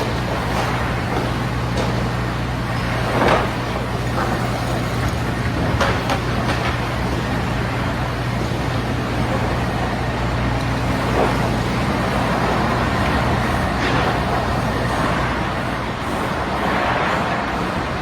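Heavy machinery running steadily with a constant low hum, broken by a few short knocks and clatters, the loudest about three seconds in.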